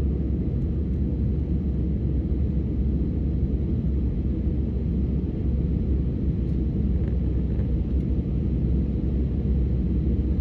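Steady low rumble of an Airbus A319 heard from inside the passenger cabin during the climb after takeoff: engine and airflow noise.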